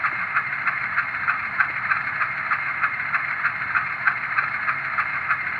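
Digitally sampled diesel locomotive engine sound from a LokSound decoder, played through an HO-scale model locomotive's small onboard speaker: a steady running beat of about three pulses a second, thin with little bass.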